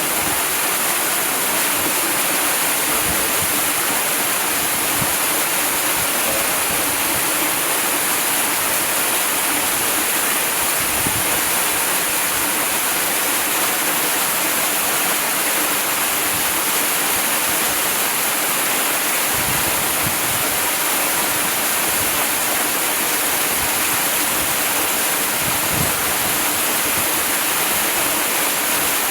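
Waterfall: water falling and rushing in a steady, even hiss that is strongest in the high end and never changes.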